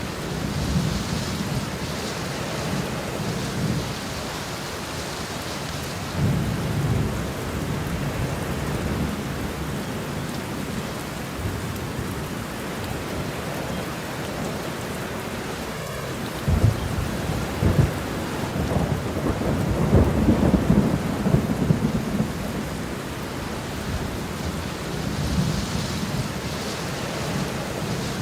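Steady rain falling in a thunderstorm, with thunder rumbling low several times; the loudest rolls and cracks come a little past the middle.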